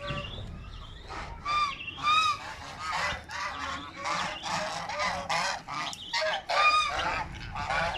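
Domestic geese honking repeatedly, many short calls close together.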